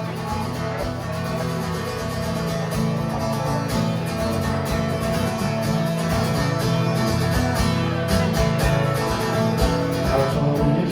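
Instrumental break in an Irish folk song: strummed acoustic guitar with a steady beat between sung verses.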